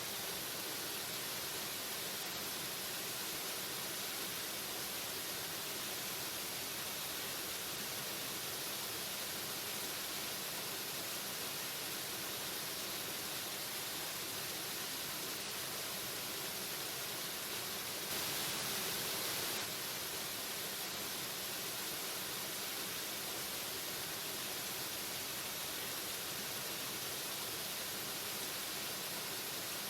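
Waterfall rushing in a steady, even roar of falling water, with a brief swell lasting under two seconds about two-thirds of the way through.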